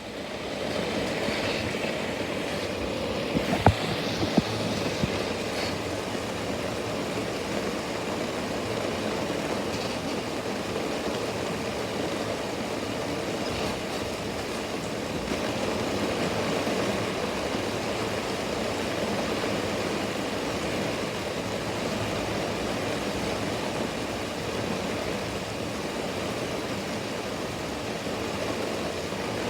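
Steady rain falling, an even hiss, with a few sharp ticks about four seconds in.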